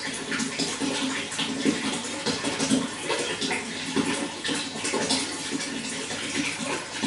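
Running water flowing and splashing steadily, with an irregular, continuous patter.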